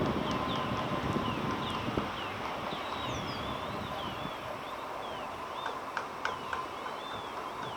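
Small birds chirping: a quick series of short, high, downward-slurred chirps, turning into more varied twittering about halfway through, over a faint steady whine and a low rumble of outdoor noise.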